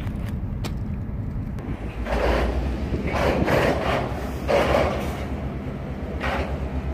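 Freight train of hopper cars rolling slowly past: a steady low rumble from the wheels on the rails, with four scrapes of steel wheels grinding on the rail spread through it.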